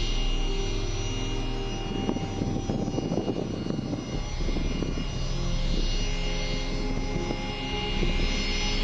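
Jet airliner engines running: a steady high whine over a rumbling rush, with a coarser crackling roar swelling about two seconds in and easing off by the middle.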